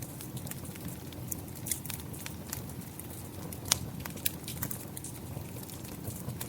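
Wood fire crackling with irregular sharp pops over a steady wash of rain, one pop a little past halfway standing out louder than the rest.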